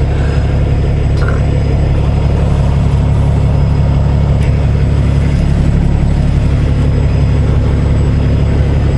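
Semi truck's diesel engine running steadily, heard from inside the cab: a constant low drone with no change in pitch.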